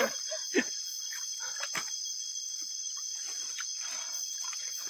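Steady high-pitched chorus of forest insects, with a few short clicks and knocks in the first two seconds.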